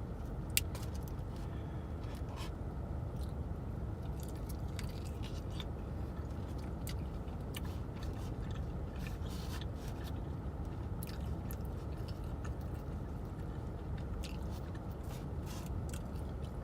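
Close-miked chewing and mouth smacking on fried chicken wings, with many short, wet clicks scattered irregularly, one sharper about half a second in. Under it runs a steady low car-cabin rumble.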